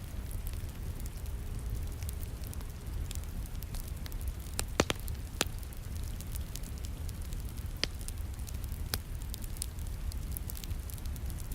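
Wood fire crackling in a fireplace, with scattered sharp pops, the loudest a close pair about five seconds in, over a steady low rumble and the hiss of falling rain.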